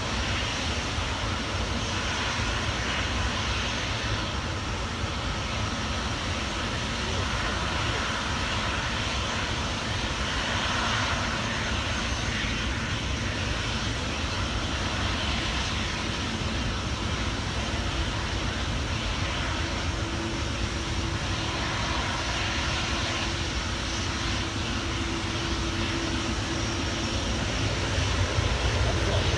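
Aircraft engines running with a steady, even rush of noise. A faint steady hum joins about two-thirds of the way in.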